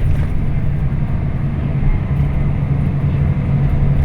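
Scania K340IB coach engine running steadily under way, a constant low drone with road noise.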